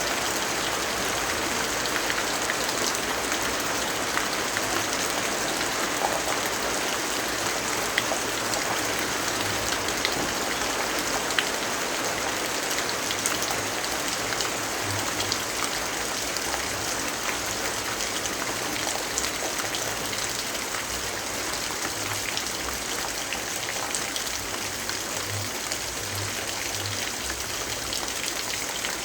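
Steady rainfall, an even hiss with scattered sharp ticks of single drops.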